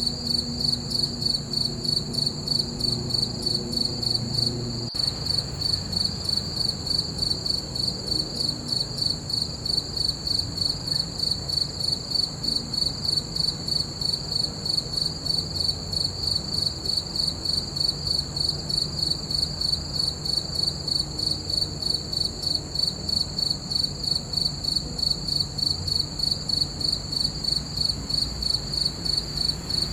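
Crickets chirping in a steady, evenly pulsing high trill.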